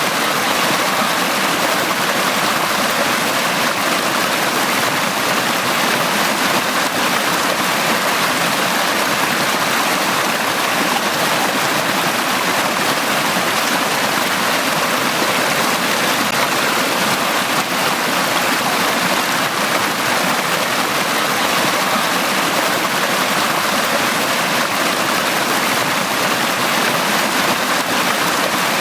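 Stream of water running over rocks, a steady rushing and babbling flow.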